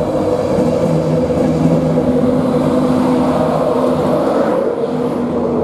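InterCity 225 train departing, its coaches rolling past on the rails. The Class 91 electric locomotive pushing at the rear passes close near the end. A steady hum of several tones runs under the rolling noise.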